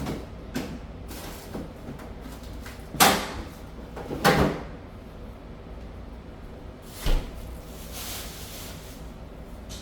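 A handful of sharp knocks and thumps over a steady low rumble; the loudest come about three seconds in, just after four seconds and about seven seconds in.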